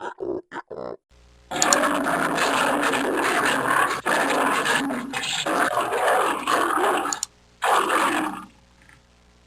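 An animal calling: three short calls in the first second, then one long, rough call lasting about six seconds and a shorter one near the end.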